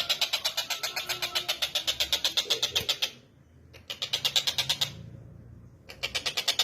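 Tengkek buto kingfisher calling: a rapid, even rattle of sharp notes, about ten a second. It breaks off about three seconds in, returns in a short burst, then starts again near the end.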